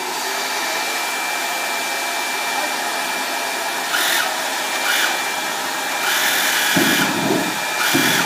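Homemade jet engine running on a forced air supply: a steady rushing roar with a thin, steady high whine. It surges louder in brief pulses several times in the second half.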